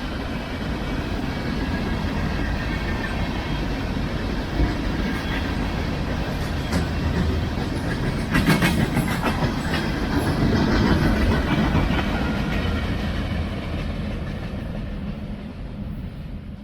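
Empty cars of a Union Pacific rock train rolling past with a steady rumble. The wheels click over the rail joints, with a cluster of sharp clicks about halfway, and the sound fades away over the last few seconds.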